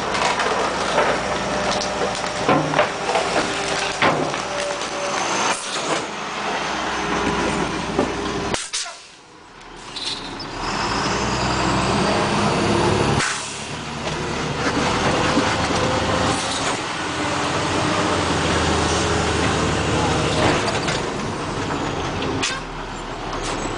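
2003 International garbage truck with a Labrie side-loader body running and working, with air brake hisses and sharp clanks now and then.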